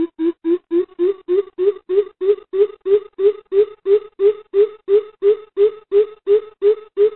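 Coucal (bìm bịp) calling: a long series of deep hooting notes, about three a second, rising a little in pitch and growing louder as it goes, as used on a lure call to draw the birds in.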